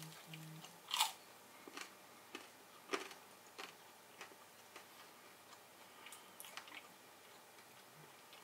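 Chewing a mouthful of crunchy hard-shell taco with the mouth closed: sharp crunches, the loudest about a second in and again near three seconds, then softer crunches at a steady chewing pace that fade out. A short closed-mouth "mm" at the very start.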